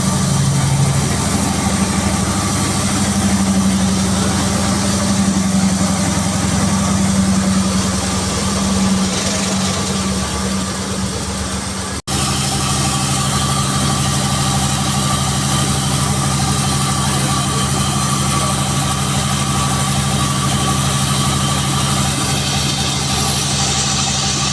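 Sawmill machinery's engine running steadily with a low hum. The sound drops out for an instant about twelve seconds in, then carries on at a slightly different pitch.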